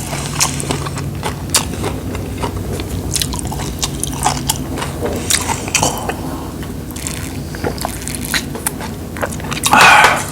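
People chewing and crunching food at a meal, with many small clicks and one louder crunch or slurp near the end over a steady low hum.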